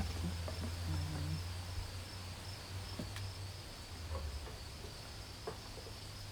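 Steady high-pitched trill of insects, over a low rumble that fades after the first second or so.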